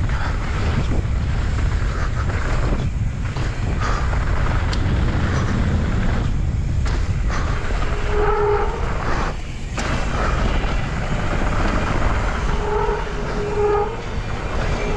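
Wind rumbling on a helmet-mounted action camera's microphone and tyre noise as a mountain bike rides down a dirt trail. The disc brakes squeal briefly, in steady high tones, about eight seconds in and again twice near the end.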